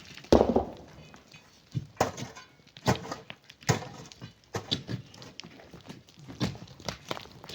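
Irregular knocks and thuds, about seven of them spaced roughly a second apart, typical of hand tools digging into sand and rock.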